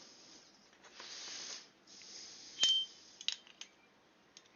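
Small metal compressor fittings being handled: a soft rustle about a second in, then a sharp metallic clink with a brief ring about two and a half seconds in, followed by a few lighter clicks.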